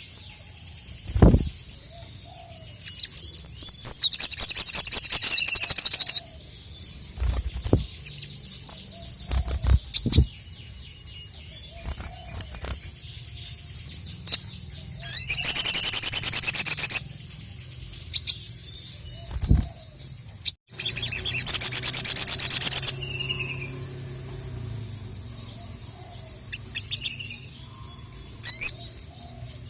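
Sogon (sogok ontong) singing: three loud bursts of fast, high, repeated chirping, each about two seconds long, with single calls between them and a few low thumps.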